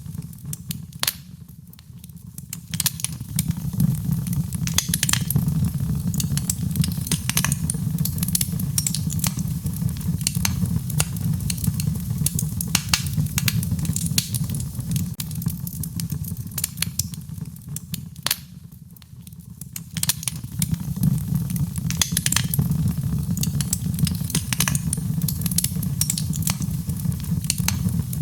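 Wood fire crackling in a fireplace, with many sharp pops and snaps over a low steady rumble. The sound dips briefly twice, about two seconds in and again near nineteen seconds.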